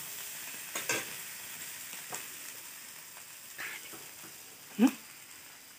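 Red ant curry sizzling in a kadai as a steel spatula stirs and scrapes it, the sizzle slowly fading; the curry is cooked and ready to come off the heat. A few short scrapes of the spatula, and one brief louder sound near the end.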